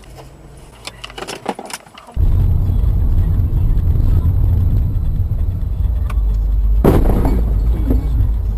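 A few light clicks, then from about two seconds in the steady low rumble of a moving car's road and engine noise picked up by a dash camera. A single sharp bang comes about seven seconds in.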